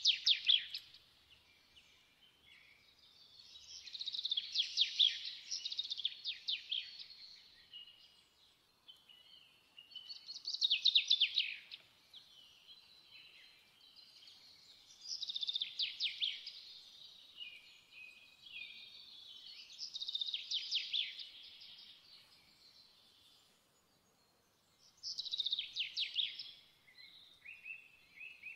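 A songbird singing in repeated phrases of rapid notes and trills, one every four to five seconds with short pauses between.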